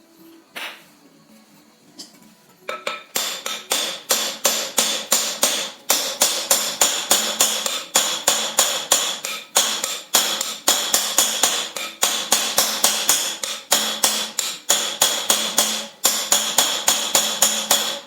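Rapid hammering on metal, about five ringing blows a second, starting about three seconds in and stopping briefly now and then. One or two single knocks come before it.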